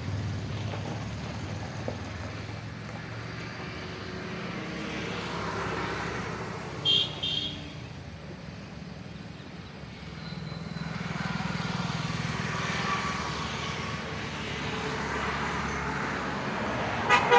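Road traffic: vehicle engines running, swelling and fading as vehicles pass. Two short horn beeps sound about seven seconds in, and another short burst of sharp sounds comes near the end.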